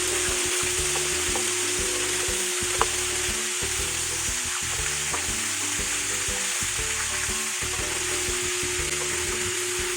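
Food frying in hot oil in a pan: a steady sizzle, with a few sharp clicks of a utensil against the pan.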